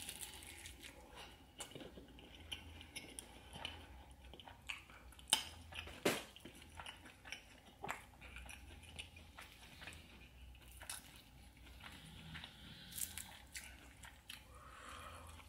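Close-up chewing and biting of sauced fried chicken with melted cheese: scattered wet smacks and crunches, the sharpest crunch about six seconds in.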